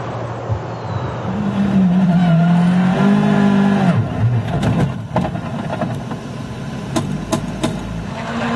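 Rally car engine revving hard: the engine note climbs, holds high, then drops away about four seconds in. A few sharp cracks follow in the second half.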